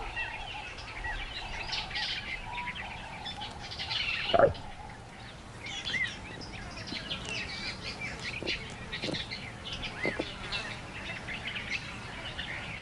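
Birds chirping and calling in a busy, continuous chorus of short high notes. A brief, louder sound stands out about four seconds in.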